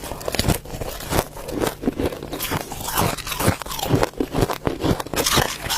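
Ice being bitten and chewed close to the microphone: a quick, irregular run of sharp crunches, several a second.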